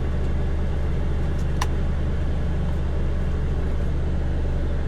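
Mercedes Actros truck's diesel engine running steadily, heard from inside the cab as a constant low drone. There is a single faint click about a second and a half in.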